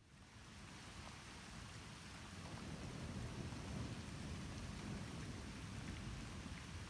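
Distant thunder rumbling low and swelling a couple of seconds in, over a steady hiss, as a storm approaches.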